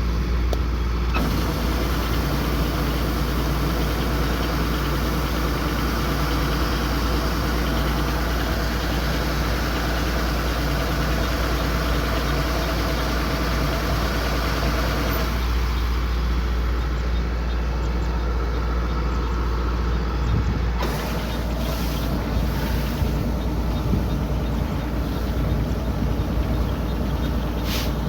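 Kubota combine harvester running steadily at work, its diesel engine giving a constant low rumble with machinery hiss over it.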